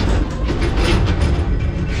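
Rear-load garbage truck's hopper compaction cycle: the engine and hydraulic packer panel running loud, crushing and clattering trash in the hopper, starting abruptly.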